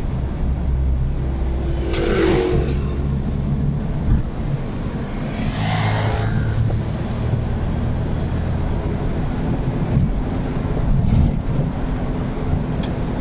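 Old Suzuki Katana's engine running on the move, a steady low hum that shifts in pitch. Two brief rushing noises come through about two and six seconds in.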